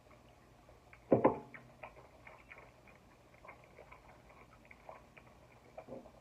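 Close-up eating sounds while eating saucy chicken wings: small wet mouth clicks and lip smacks scattered throughout, with a louder short mouth sound about a second in and another near the end.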